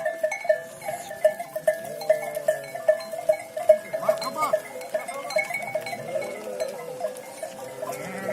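A flock of sheep with bells: the bells clink and clank unevenly, a few strikes a second, and a sheep bleats once about four seconds in.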